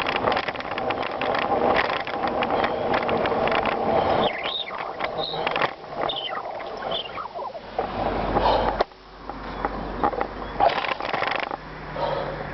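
Bicycle rolling over gravel, the tyres crunching and the bike rattling for about four seconds, then going quieter, with a few short high chirps and wind buffeting the microphone.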